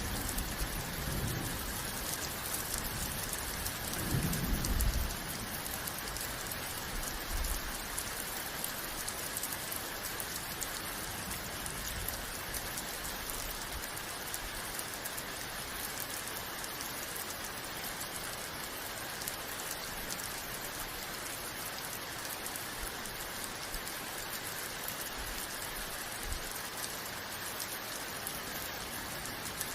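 Steady rain falling, with low rumbles of thunder in the first few seconds, the strongest about four seconds in.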